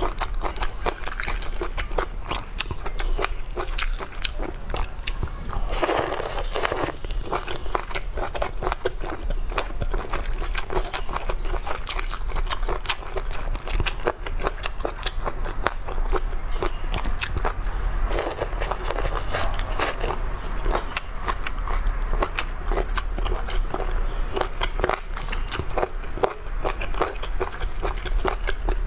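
Close-miked mouth sounds of chicken feet being bitten and chewed: a dense run of wet, crackly clicks as skin and cartilage are worked between the teeth. Two brief, louder noisy rushes come about six seconds in and again around eighteen seconds.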